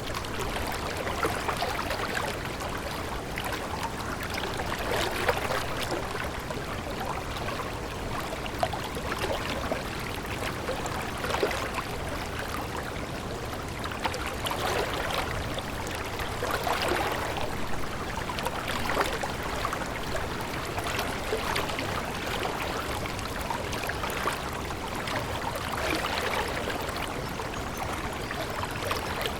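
Running water of a stream, a steady babbling rush with small irregular splashes throughout.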